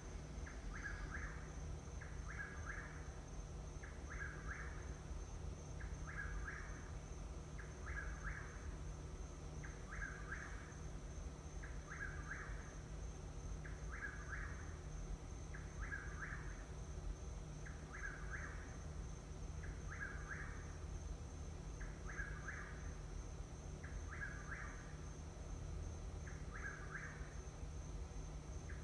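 A bird calling at night: the same short call, in two parts, repeated about every two seconds, over a steady high-pitched tone and a low hum.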